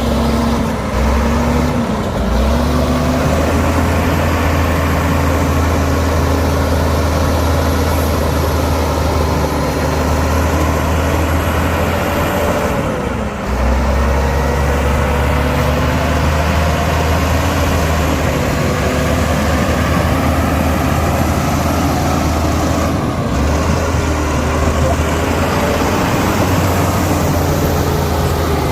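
Heavy diesel earthmoving machinery working under load, the engine note rising and falling as the revs change, with brief dips in revs about two seconds in and again near the middle.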